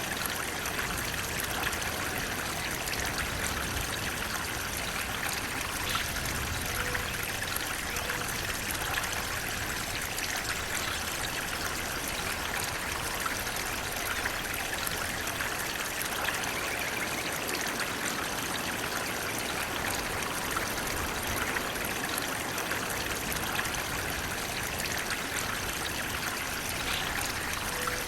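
Running water flowing steadily, as in a stream: an even, continuous rush with trickling.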